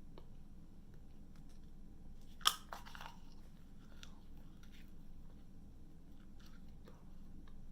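A person bites into something crunchy with one loud crunch about two and a half seconds in, then chews, giving small scattered crunches and clicks.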